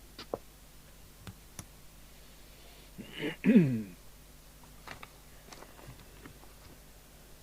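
A few faint, scattered clicks of equipment being handled on the bench. About three and a half seconds in comes a short wordless vocal sound from a person, falling in pitch.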